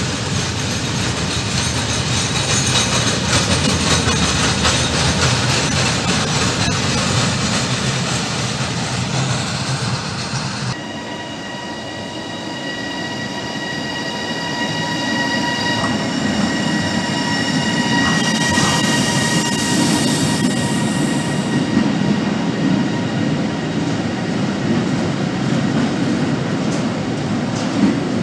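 Freight train of open-top Eanos wagons rolling past with a steady rumble and wheel clatter. About 11 s in, an electric locomotive hauling empty car-carrier wagons runs through the station. A steady high whine of several tones sounds as it comes by, then the wagons' low rumble grows.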